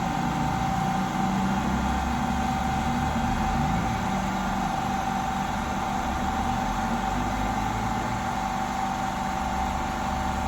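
Steady machine hum with a constant high whine and a low rumble, unchanging throughout.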